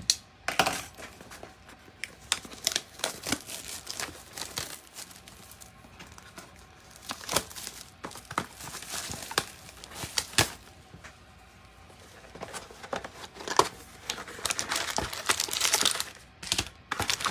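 Plastic shrink wrap being torn off a trading-card hobby box and crinkled, a run of irregular crackles and rustles that come thickest about halfway through and again near the end, with the box's cardboard flaps handled in between.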